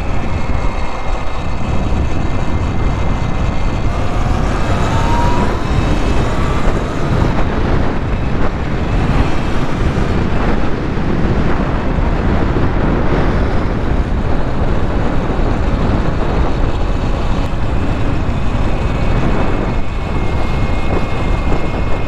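Wind rushing over the microphone with steady tyre and running noise from an e-bike being ridden, and a faint electric-motor whine that rises in pitch about five seconds in.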